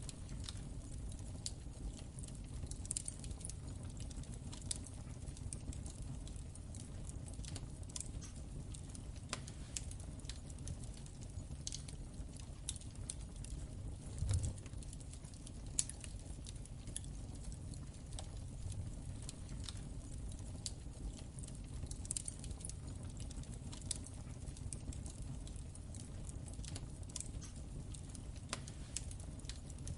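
Wood fire crackling in a fireplace: irregular sharp pops and snaps over a steady low rumble of the flames, with a slightly heavier pop about halfway through.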